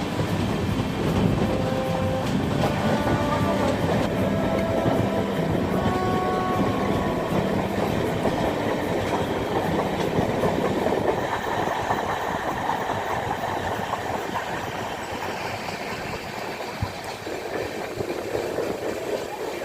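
Rupasi Bangla Express passenger train running on the rails, its wheels clattering steadily over the track. A few brief high-pitched tones sound over the rumble in the first several seconds.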